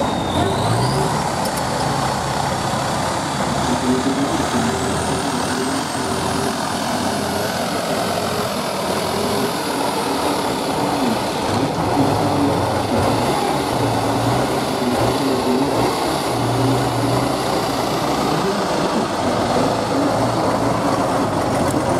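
Truck engine running with shifting revs, under a steady crowd noise with people talking. A high whine rises over the first few seconds.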